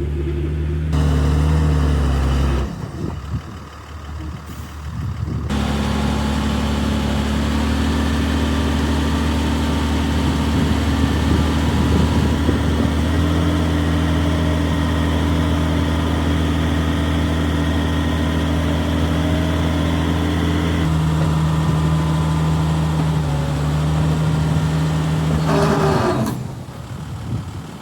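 Heavy diesel engine of earthmoving machinery running and working, its pitch stepping up and down several times. It drops away briefly a few seconds in and again near the end.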